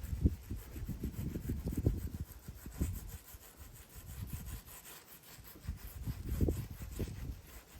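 Irregular low rubbing and scuffing strokes as resin-soaked fiberglass cloth is worked down onto a kick drum shell, with a short lull a little past the middle.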